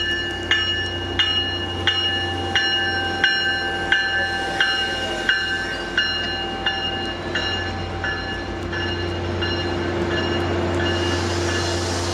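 A bell strikes about one and a half times a second, each strike ringing and fading before the next, and the strikes die away about two-thirds of the way through. Under it a train's steady low rumble continues, with a rising hiss near the end.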